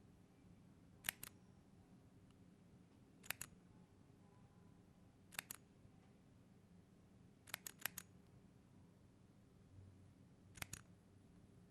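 Small clusters of two to four sharp, crisp clicks, repeating about every two seconds over a faint low hum.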